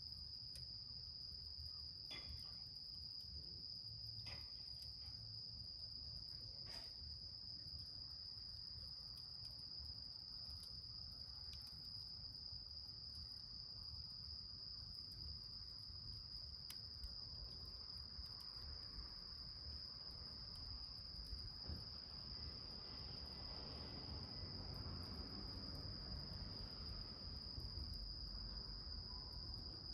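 A steady, high-pitched insect trill, as of crickets, runs on without a break, with a few faint pops from a small wood fire burning in a can in the first several seconds.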